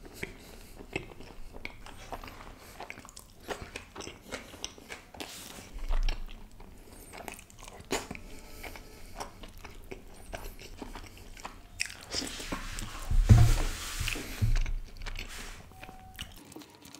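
Close-miked eating sounds of a person chewing butter chicken eaten by hand: many short wet mouth clicks and smacks. About twelve seconds in the chewing grows louder for a few seconds, with low thumps.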